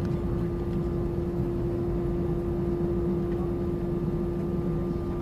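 Steady drone of an Airbus A320-200 airliner, with one held humming tone above a low rumble.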